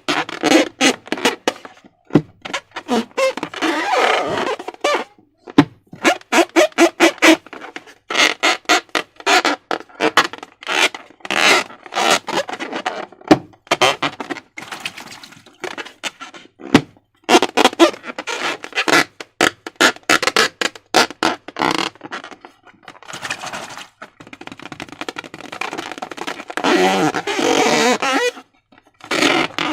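Slime being squeezed and worked by hand, making wet, sticky squelches and quick runs of crackling clicks from trapped air, in irregular bursts with short pauses between.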